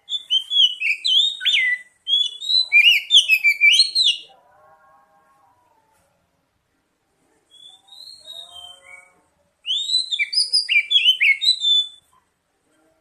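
Oriental magpie-robin (kacer) singing in three loud runs of rapid, varied whistled notes. Quieter, lower chattering notes fall in the gaps between runs.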